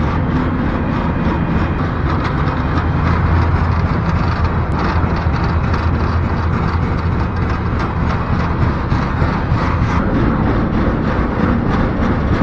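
Freight train in motion heard from aboard a car: a steady low rumble with continual rattling and clatter.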